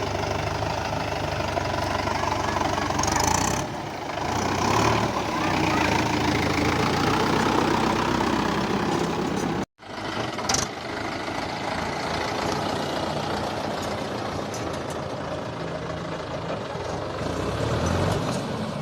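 Mahindra tractor's diesel engine running steadily, with a sudden momentary break about ten seconds in.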